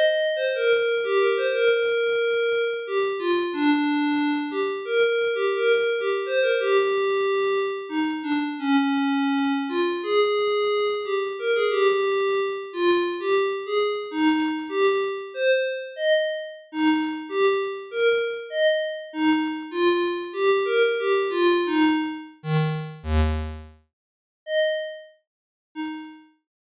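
Surge XT software synthesizer playing a quick melodic line of short notes, each rich in overtones and fading fast. Near the end a couple of low notes sound, then two sparse notes before it stops.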